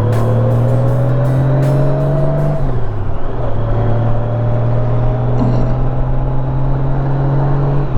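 Honda Gold Wing's flat-six engine pulling under acceleration, its note rising steadily. It drops sharply at a gear change about two and a half seconds in, then climbs again until another shift at the very end.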